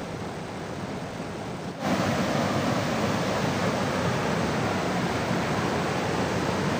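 Steady rushing noise of heavy rain and running water, which jumps abruptly louder about two seconds in and holds there.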